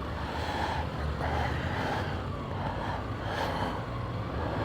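Motorcycle engine running steadily as the bike rides along, heard as a low rumble with a faint wavering whine above it.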